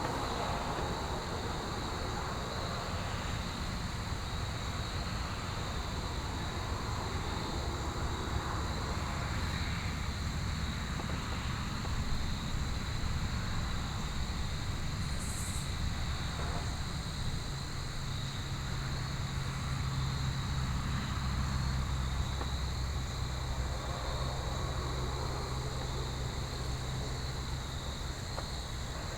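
Steady chorus of crickets, a continuous high trill in two pitch bands, over a low outdoor rumble; a low droning hum, like distant machinery, joins about halfway through.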